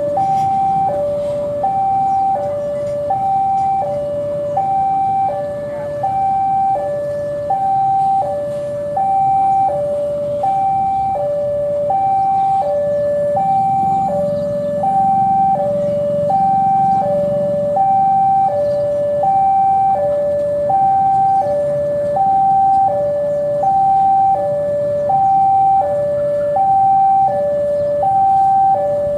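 Electronic two-tone railway level crossing warning alarm, sounding a steady high-low pattern about once a second, signalling that a train is approaching or moving. A low rumble swells briefly in the middle.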